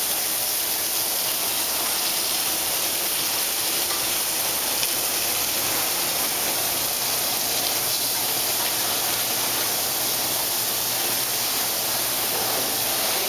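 Chicken pieces searing skin side down in a frying pan with little oil, a steady, even sizzle.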